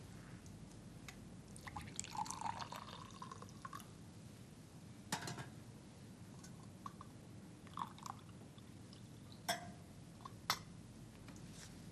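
Liquid poured into a cup for about two seconds, followed by several light clinks of china.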